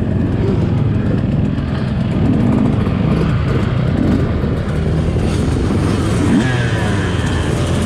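Motocross bike engine running hard, its revs rising and falling, over a steady low rumble.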